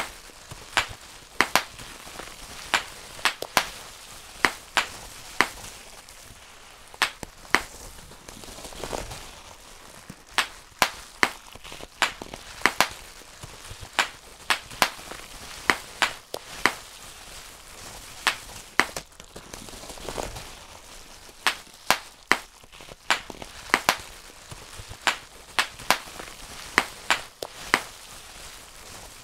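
Bubble wrap being popped by hand: sharp, irregular pops, a few a second, over the crinkle of the plastic sheet.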